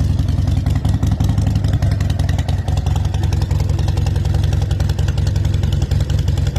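2013 Harley-Davidson Seventy-Two's 1200 cc V-twin engine running steadily with a rapid, even exhaust pulse.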